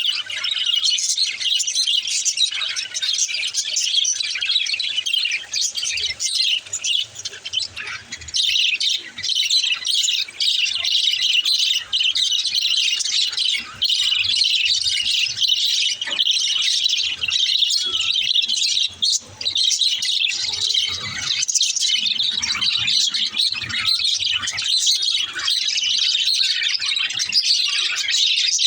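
Small birds chirping and chattering without a break: a dense stream of quick, high-pitched tweets and squawks.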